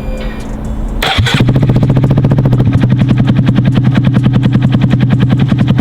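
Honda Monkey 125's single-cylinder engine, fitted with a freshly built custom exhaust, starts about a second in and settles into a steady idle with a rapid, even pulse. The owner says it sounds pretty good but will need a tune for the new pipe.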